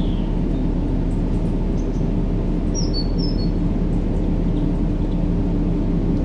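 Steady, deep white-noise track for baby sleep, even in level and dark in tone with a faint steady hum in it. A few faint high chirps sound briefly about three seconds in.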